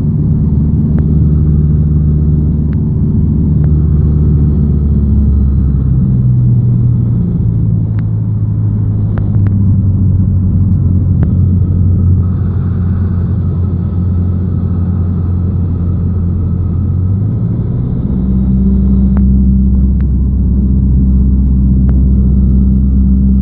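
Cessna 172's piston engine and propeller droning steadily, heard from the cockpit. About six seconds in the engine note drops as power is pulled back to begin the landing descent in the traffic pattern, and around eighteen seconds it rises again as power is added.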